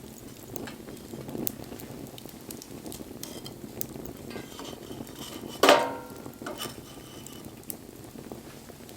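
Wood fire crackling, with scattered sharp pops. A little past halfway comes a single loud knock with a short ring.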